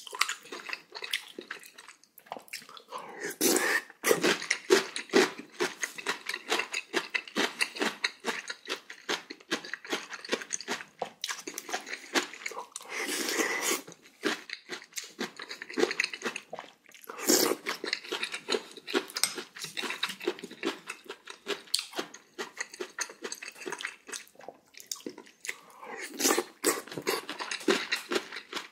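Close-miked eating: a person chewing and crunching in quick succession, the crisp crunch of radish kimchi (kkakdugi) mixed with wetter chewing of soup-soaked rice and pork, with several louder crunching bites.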